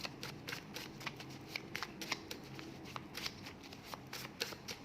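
Word cards being handled and shuffled by hand: a run of irregular light clicks and flicks of card on card.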